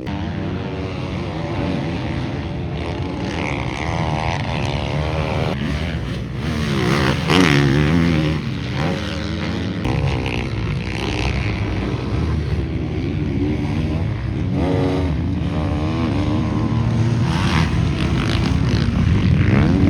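Several motocross bikes on the track, their engines revving up and falling away as they accelerate and shift, overlapping one another, loudest about seven seconds in.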